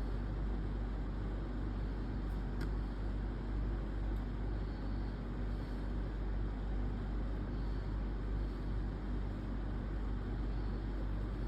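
Steady low rumble with a hiss over it, unchanging throughout, and a single faint click about two and a half seconds in.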